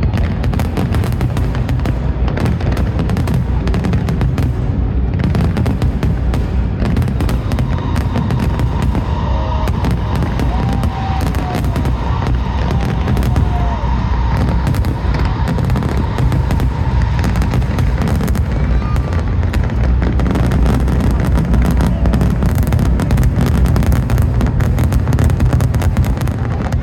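Dense barrage of aerial fireworks: rapid, continuous bangs and crackling over a deep rumble, with a few short whistles around the middle.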